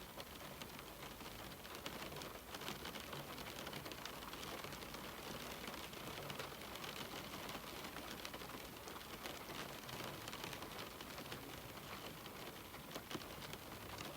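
Steady rain falling on a window, an even hiss with many small drop taps on the glass.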